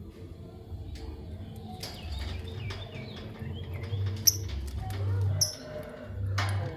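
Lovebirds giving short, high-pitched chirps, two clear ones about four and five seconds in, among scattered clicks and a sharp tap. A brief rush of noise comes near the end.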